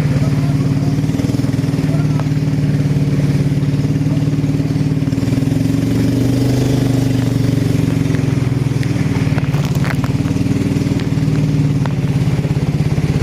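A small engine running steadily, its pitch shifting slightly a few times.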